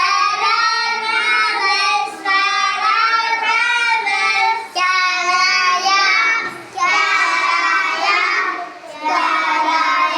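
Young children singing a vowel-sounds song in several short phrases, with brief breaks between them.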